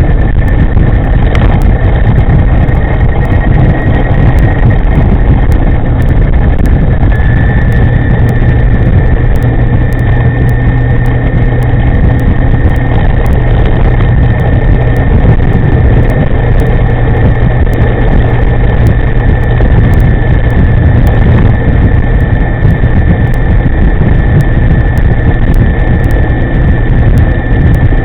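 Chunghwa e-moving electric scooter with a V200 power system, ridden at speed: loud wind rumble on the microphone and a steady high whine, which fades in the first few seconds and returns strongly about seven seconds in.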